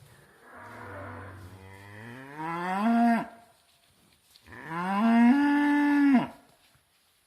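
Cow mooing twice. The first moo starts low and rises in pitch, growing louder as it goes. The second is shorter; it rises quickly and then holds its pitch before stopping.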